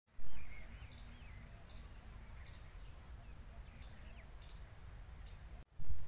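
Small birds calling in open farmland: a short high whistle repeated about once a second, with scattered gliding chirps, over a steady low outdoor rumble. A brief loud noise comes just after the start.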